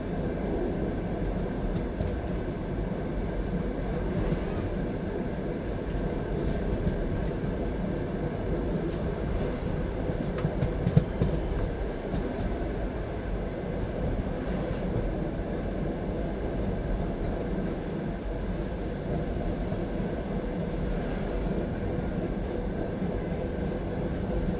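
Passenger train carriage running along the track, heard from inside: a steady rumble of wheels on rail, with a few sharp knocks of the wheels over rail joints, the loudest about eleven seconds in.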